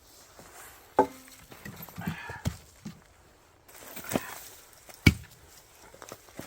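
Firewood being split with an axe: a few separate sharp strikes, about a second in, around two seconds, and near four and five seconds in. The first strike has a short ring after it.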